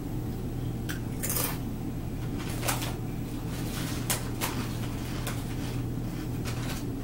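A potato chip being bitten and chewed, crisp crunches coming irregularly several times over the seconds. A steady low hum runs beneath.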